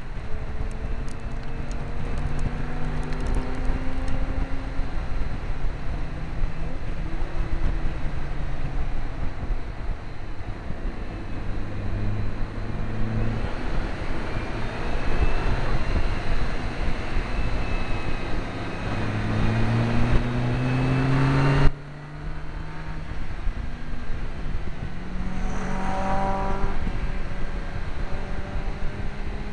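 Mk5 Volkswagen GTI's turbocharged four-cylinder engine under hard acceleration on a circuit, heard from a front-bumper camera through heavy wind and road noise. Its pitch climbs steadily through long pulls, and the longest cuts off abruptly about two-thirds of the way through.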